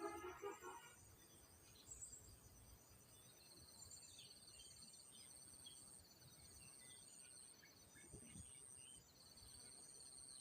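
Faint outdoor ambience of insects trilling in steady, high pulsing tones that switch on and off, with scattered short bird chirps.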